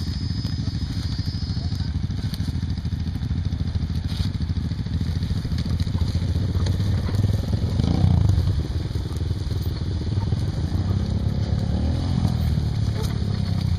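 Honda Tornado 250 trail motorcycle's single-cylinder four-stroke engine running under way, revving up and easing off about eight seconds in and again near the end.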